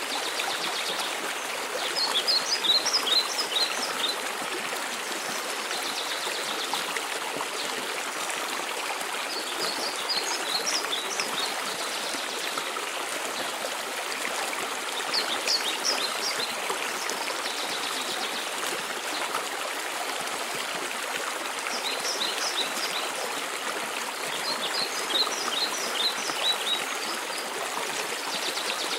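Steady rush of a mountain waterfall, with a songbird singing short phrases of quick high notes five times over it.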